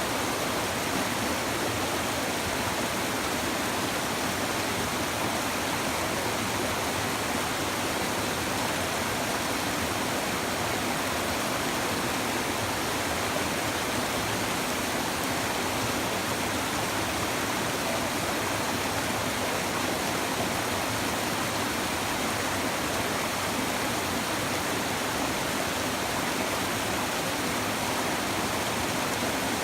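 River water babbling over rocks: a steady, even rush of flowing water.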